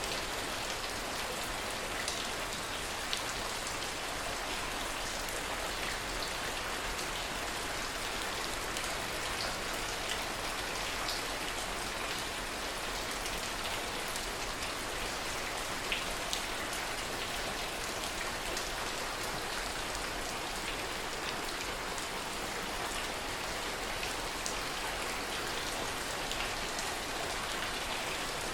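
Steady rain, with scattered single drops ticking out above the even hiss.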